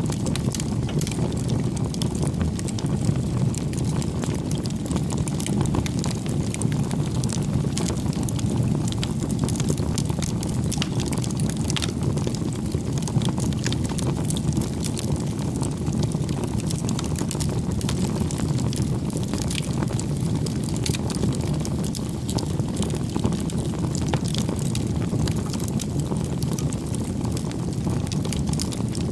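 Campfire burning: a steady low rush of flame with many small, irregular crackles and pops from the burning wood.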